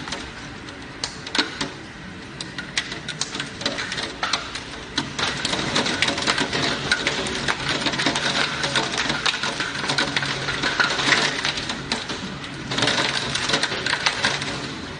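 Hailstones striking hard surfaces in a dense, irregular patter of sharp clicks that grows thicker a few seconds in.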